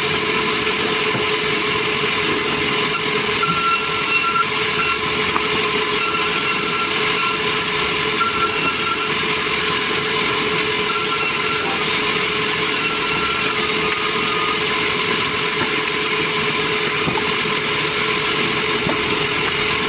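Sawmill saw running steadily as it cuts meranti timber, a constant hum with short higher whines coming and going.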